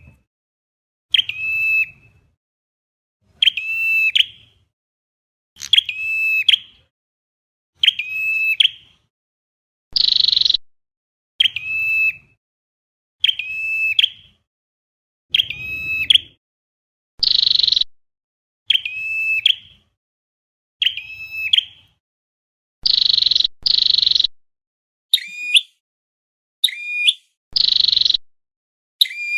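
Recorded flowerpecker calls repeated as a bird-trapping lure: a short, sharp, high call about every two seconds, with dead silence between. Some calls, including a close pair near the 23-second mark, come out harsher and louder.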